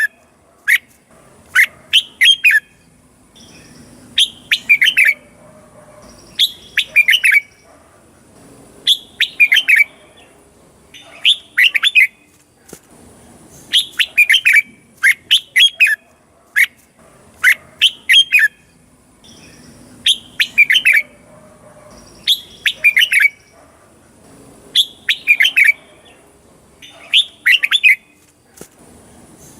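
Red-whiskered bulbul singing: short, quick phrases of a few warbled notes, repeated about every two seconds, with a faint steady high whine underneath.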